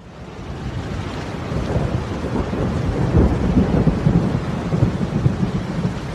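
Loud, continuous rumbling noise with crackle, rising in over the first second out of dead silence and easing off a little near the end.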